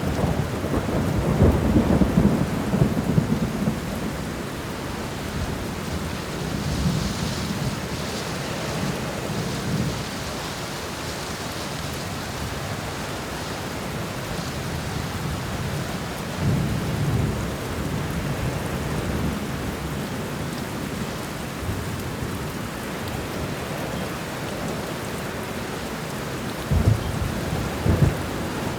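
Steady rain with rolling thunder. A long low rumble comes in the first few seconds, another about halfway through, and a couple of sharper thunderclaps near the end.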